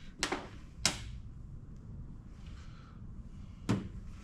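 Three sharp clacks of small hard parts or tools being set down and handled on a workbench, the second a little under a second after the first and the third near the end.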